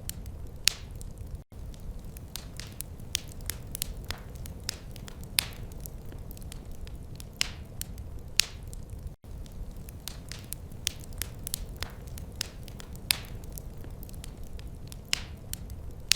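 Wood fire crackling in a fireplace: irregular sharp pops and snaps, a few of them much louder, over a steady low rumble of flames. The sound cuts out for an instant twice.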